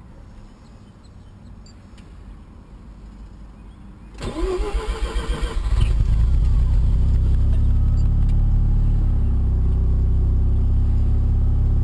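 Turbocharged 1990 Mazda RX-7's 13B rotary engine cold-starting. About four seconds in, the starter cranks for under two seconds with a rising whine, then the engine catches and runs on at a steady idle.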